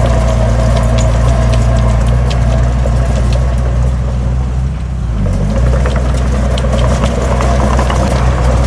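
Heavy diesel engine of earthmoving equipment running steadily, with frequent sharp metallic clanks and rattles. About five seconds in, the engine note drops briefly, then picks up again.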